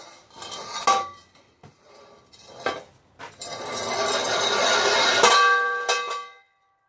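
Loud metallic clanging from a fence post: sharp strikes about a second in and twice more near the end, each leaving a ringing tone, over a rushing noise that stops suddenly.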